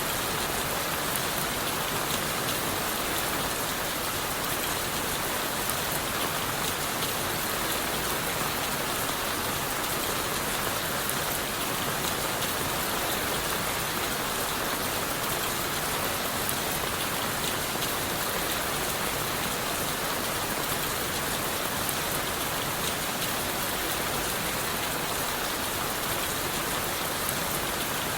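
Steady rain falling, an even hiss dotted with fine patter of drops, unchanging throughout.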